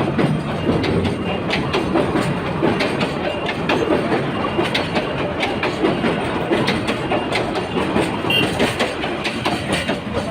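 Goods train running on the track, its wagon wheels clattering over the rail joints in a steady, irregular stream of clicks and knocks.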